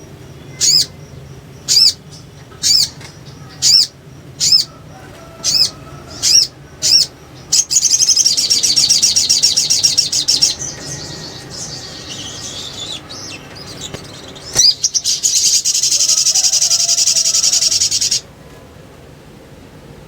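Spiderhunter (sogok ontong) calling: sharp high single notes about once a second, then two long, rapid, high chattering trills, the first near the middle and the second toward the end.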